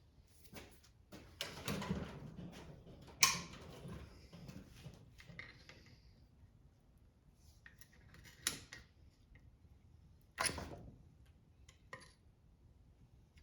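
Hand tools and metal engine parts being handled during disassembly of a Kohler small engine: a stretch of handling and rustling with a sharp metallic strike about three seconds in, then a few separate knocks and a click later on.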